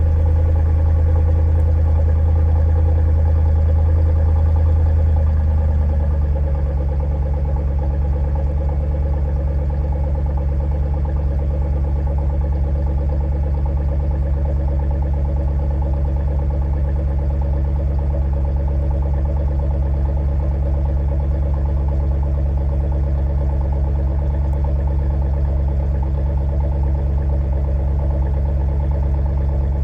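Volvo S80 4.4 V8 idling through its stock exhaust after a cold start. The idle drops a step about six seconds in and then runs steadily at the lower speed, as the cold-start fast idle comes down.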